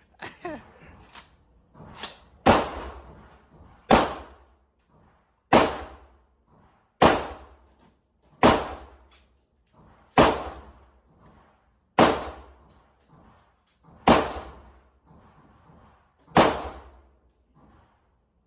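A string of shots from a semi-automatic shotgun: about nine loud blasts, one every one and a half to two seconds, each followed by a short ringing tail. A few fainter shots fall in between.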